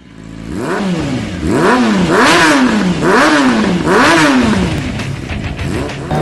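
Motorcycle engine revved several times in quick succession, each rev climbing quickly and then dropping away. It fades in from silence at the start.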